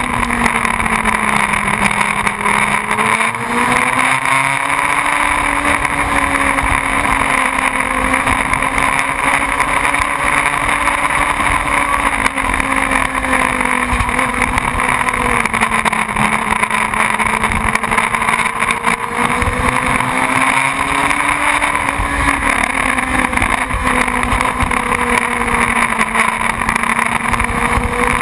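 Motorcycle engine running steadily, its pitch drifting gently up and down with small changes in engine speed, over a constant rushing noise.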